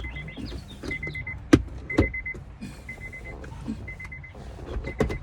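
The car's electronic warning chime repeats a short run of rapid high pips about once a second. Over it come sharp plastic clicks and knocks as the console pocket's parts are pushed in to lock, the loudest snap about a second and a half in.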